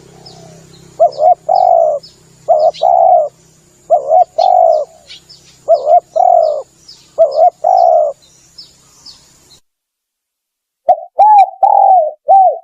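Spotted dove (tekukur) cooing, a phrase of a few short, hollow notes repeated about every second and a half, with faint high chirps of small birds behind. The sound drops out completely for about a second toward the end, then the cooing starts again.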